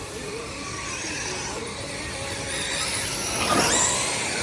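Electric RC sprint cars running on a dirt oval, their motors whining as they lap, with a louder surge about three and a half seconds in.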